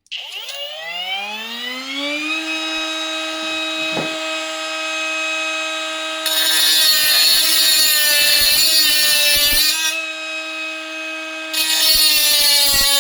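A HILDA mini 3-inch brushless angle grinder on an 18 V battery spins up with a rising whine, then runs steadily. From about halfway through it cuts into 3 mm flat iron twice, the disc's grinding hiss loud over the motor whine, with a short break between the cuts.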